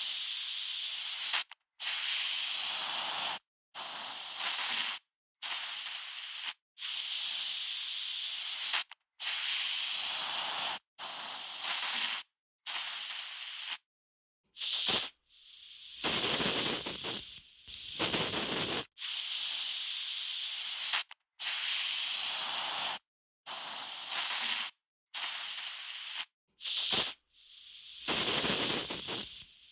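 Aerosol spray can sprayed in a long run of short hissing bursts, each about one to two seconds, with brief silences between them.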